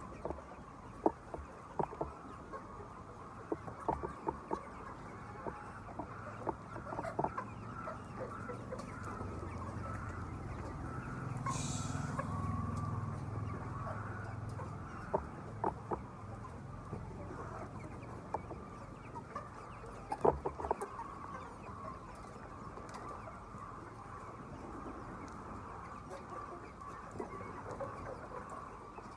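A flock of chickens clucking continuously in a poultry house, with scattered sharp clicks and knocks. A low rumble swells in about a third of the way through and fades a few seconds later.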